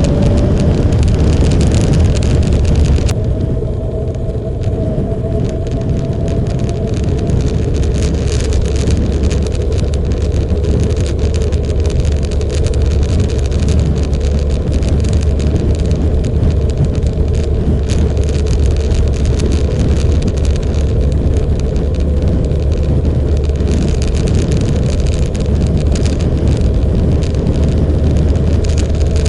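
Motorcycle riding at a steady speed: a low, steady engine drone under a constant rushing noise, with a faint whine that rises slightly a few seconds in.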